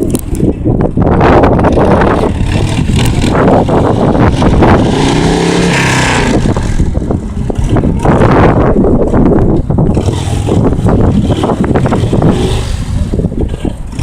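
Stunt motorcycle's engine revving, its pitch rising and falling repeatedly as the throttle is worked, most clearly around the middle.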